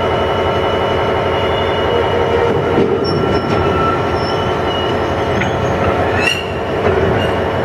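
Class 66 diesel locomotive's two-stroke EMD V12 engine running under load as it passes close by, pulling a train of fuel tank wagons out of the station. Steady high squealing from the wheels runs over the rumble, with short squeaks a few seconds in and a brief rising squeal near the end.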